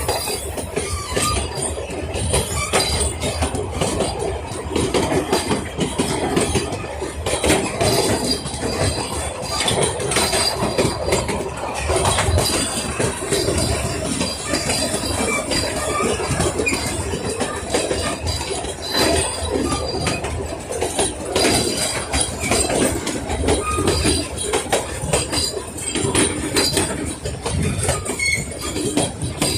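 Puffing Billy narrow-gauge steam train carriages rolling along the track, with the wheels clicking over the rail joints and a faint high squeal of wheels against the rails.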